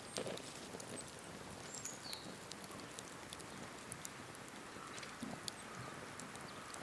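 Japanese cedar firewood burning in a campfire, crackling with sharp pops that come at irregular intervals over a steady hiss. A bird gives a short falling chirp about two seconds in.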